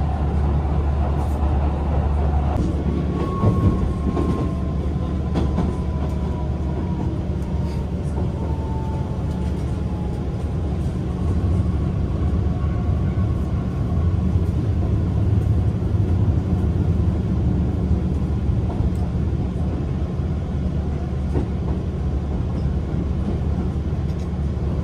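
Hankyu 2300 series electric train running at speed, heard from inside the passenger cabin: a steady low rumble with a faint whine that drifts slowly down in pitch in the first half, and a few knocks from the wheels early on.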